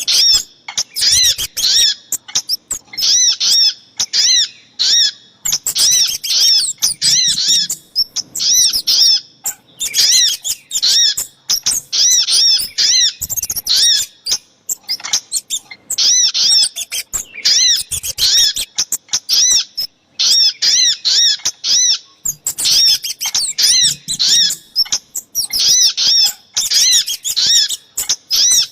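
Bird-lure recording of a sogok ontong (spiderhunter) and kemade call mix. Small birds give rapid runs of sharp, high chirps, each run lasting a second or two with short breaks between.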